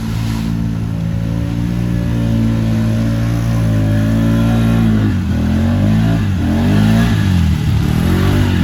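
ATV engine running at a steady speed, then revving up and down repeatedly from about halfway through.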